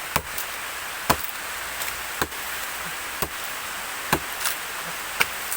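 Axe chopping into the trunk of an agarwood (gaharu) tree, six strikes about a second apart, cutting in to check for resinous heartwood. Rain falls steadily underneath.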